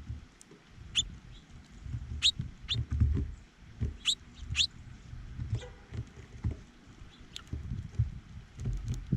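Small birds at a feeder giving short, high chip notes, about five of them in quick succession, over low rustling and knocking close to the microphone.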